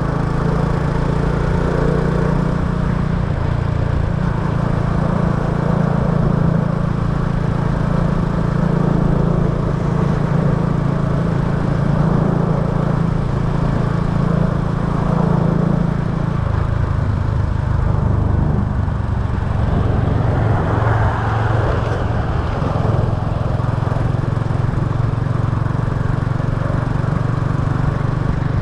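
Small motorbike engine running steadily while riding, with road and wind noise; the engine note shifts about halfway through.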